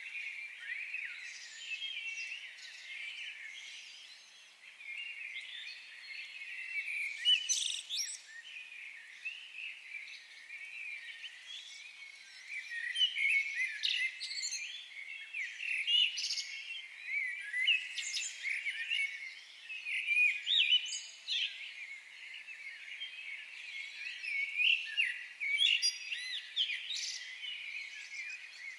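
Many birds singing at once in a forest: a dense, overlapping chorus of high chirps, trills and warbles.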